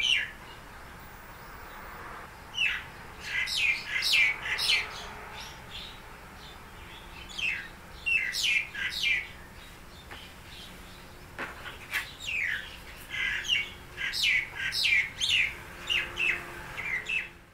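Birds chirping: short, falling notes in quick runs of several, repeating with brief pauses, over a faint steady background hum.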